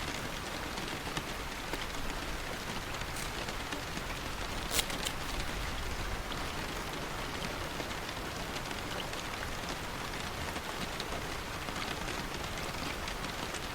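Steady rain falling, with a few brief sharp ticks, the clearest about five seconds in.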